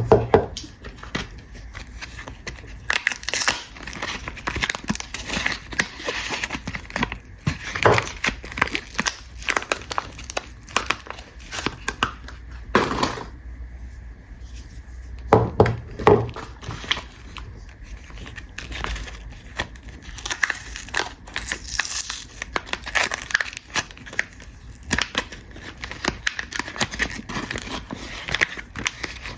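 Soap packaging being unwrapped by hand: irregular crinkling and tearing of the wrapper, with a few louder, sharper crackles.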